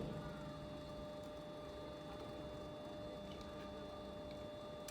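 A steady electrical-sounding hum with a few held tones, broken only by a couple of faint ticks.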